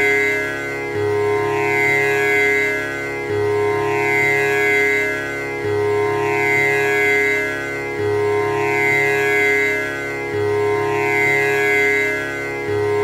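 Tanpura drone: its strings plucked in a slow repeating cycle that starts over about every two and a half seconds, each pluck ringing on in a dense shimmer of overtones.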